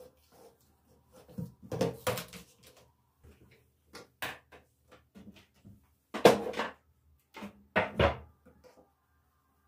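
Irregular knocks and clatters of household objects being handled and set down, with the loudest clunk about six seconds in.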